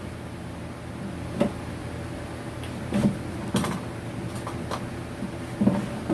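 A few short knocks and clicks of objects being handled, about four scattered through the stretch, over a steady low hum.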